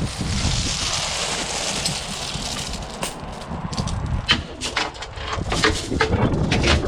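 A broad rush of wind noise, then from about halfway through a run of irregular sharp knocks and clanks.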